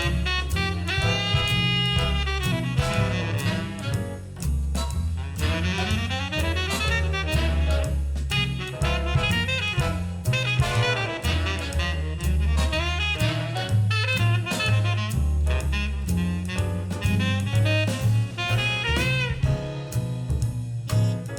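Jazz recording with a saxophone lead over drums and bass, played back over Elfton Vegas II four-way loudspeakers and heard in the room.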